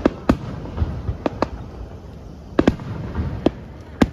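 Aerial fireworks exploding in a display: a series of sharp bangs, some in quick pairs, over a rolling rumble of further bursts.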